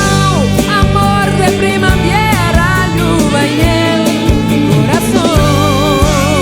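Instrumental passage of a full band arrangement in a romantic sertanejo style: drums and bass keep a steady beat under a lead melody line that ends on a held, wavering note.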